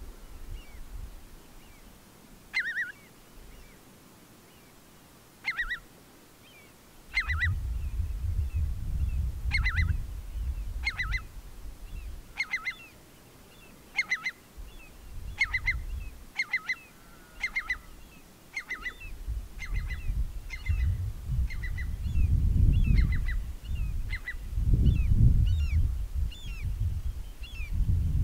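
A bird giving short, repeated calls, a few seconds apart at first and then about once a second, over low gusts of wind on the microphone.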